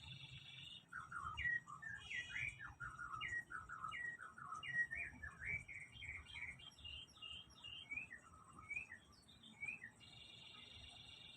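A kept songbird singing a long, varied run of short, quick chirping notes, each sliding up or down in pitch, for about eight seconds. It is framed by a steadier, higher buzzing trill at the start and again near the end.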